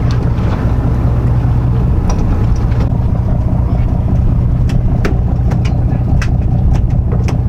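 A charter boat's engine running steadily with a low, even drone, with several sharp clicks and knocks over it from about two seconds in.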